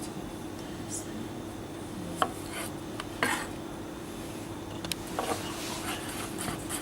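Knife and chopping board handled while a courgette is cut: a few separate sharp knocks with scraping and rubbing between them, over a steady low hum.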